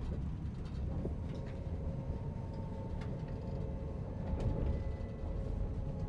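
Astoro (ETR 610) passenger train running, heard from inside the coach: a steady low rumble with a faint steady whine and a few clicks.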